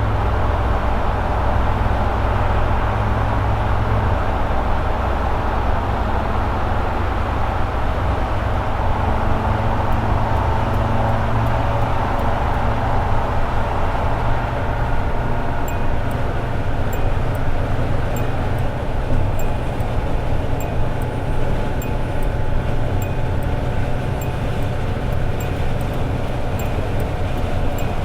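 Toyota AE86 Sprinter Trueno's four-cylinder engine running steadily at highway cruising speed under road noise. From about halfway, faint regular high ticks join in.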